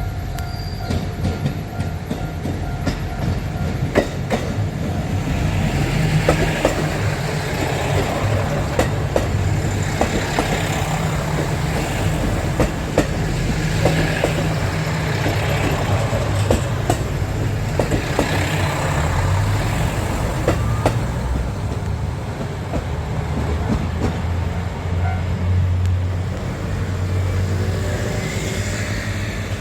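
A train running past, its wheels clacking over the rail joints in a run of sharp clicks, over a steady low drone.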